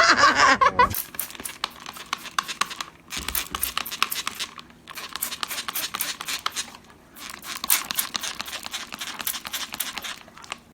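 Rapid, irregular crinkling and crackling after a brief bit of voice at the start.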